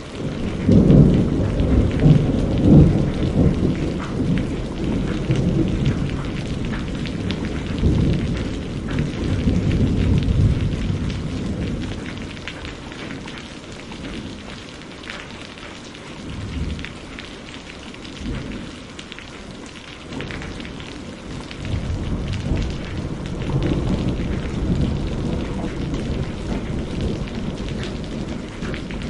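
Steady rain falling, with thunder rumbling low underneath: a loud roll right at the start that eases off toward the middle, then a second roll building about two-thirds of the way through.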